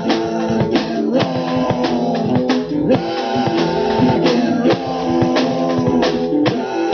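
Live rock band playing an instrumental passage: guitars with a drum kit keeping a steady beat.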